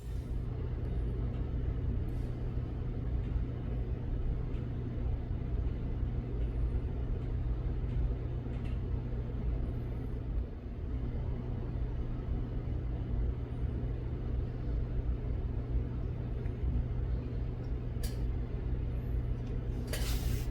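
A steady low mechanical hum and rumble, holding level throughout with one brief dip about halfway.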